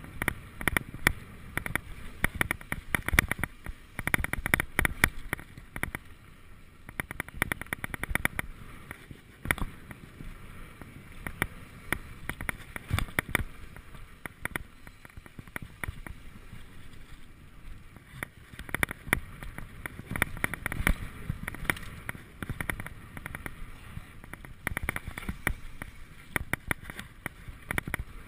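Mountain bike riding down a rough dirt trail: irregular rattling and clattering of the bike over bumps, with low wind rumble on the microphone.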